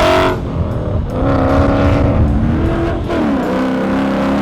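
Ford Mustang GT's 5.0 L V8 through XForce long-tube headers and a stainless 3-inch exhaust with Varex mufflers, accelerating hard: the engine note climbs in pitch in repeated pulls, broken off about a third of a second in and again near three seconds, as at gear changes.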